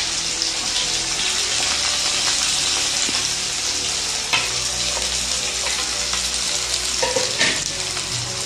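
Chopped onions frying in hot oil in a kadai, a steady sizzle throughout. A few short sharp clicks come through it about four seconds in and again near the seven-second mark.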